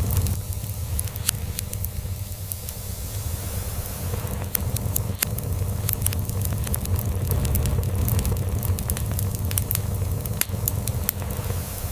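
Log fire crackling, with frequent sharp pops that come in clusters, over the low, steady rumble of a cat purring.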